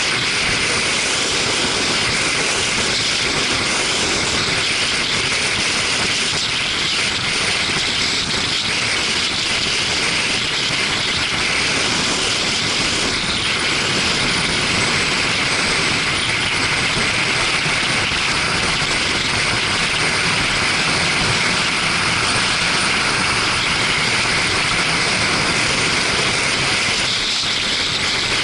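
Steady wind rush and road noise on the microphone of a camera riding along on a moving motorcycle, with engine noise under it.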